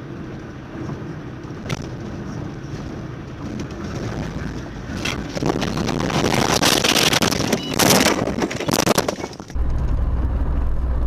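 Car road and engine noise that grows louder, broken by a loud, dense stretch of clattering and crunching from about six to nine seconds in. About nine and a half seconds in it cuts to a steady low hum.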